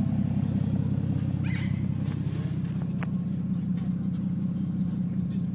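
Ford Falcon XR6 Turbo's turbocharged inline-six idling steadily, heard from inside the car, with a few faint light clicks and rustles.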